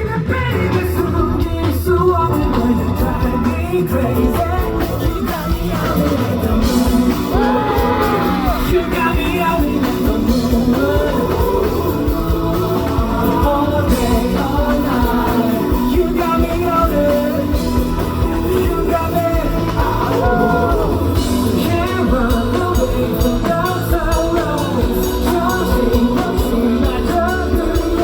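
Rock-flavoured pop song performed live: a male voice singing over loud backing music with a steady low beat, heard through a festival sound system.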